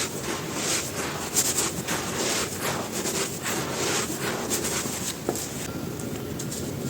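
Dry, dusty, crispy cylinders crumbling, giving a continuous run of irregular crisp crunches and crackles.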